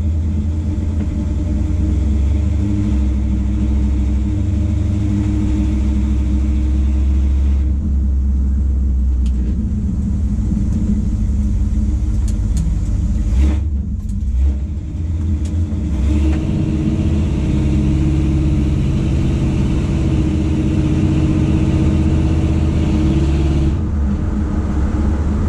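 Pickup truck's engine and exhaust, fitted with Jones Full Bore single-chamber mufflers and turndown tips, droning steadily inside the closed cab while driving. A little past halfway the note dips briefly and then settles at a different pitch, as with a gear change.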